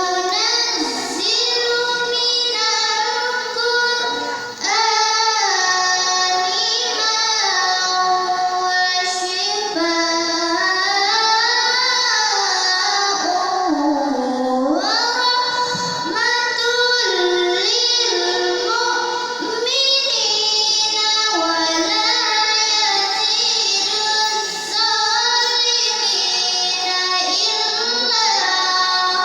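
A young girl's voice chanting the Quran in melodic tilawah style. She sings long, ornamented phrases that glide up and down in pitch, with brief breaks for breath.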